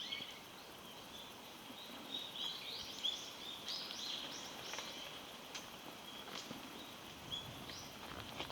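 Small birds calling: repeated short, high chirps and twitters, busiest a couple of seconds in, over faint outdoor background noise.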